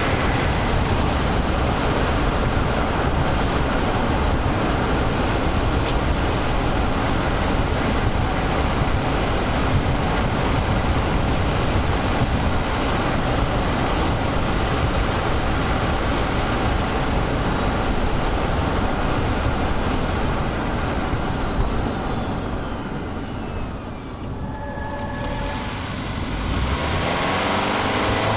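Steady road and tyre roar heard inside the cabin of a 2023 Toyota Highlander Hybrid driving at speed, easing off for a few seconds near the end before building again.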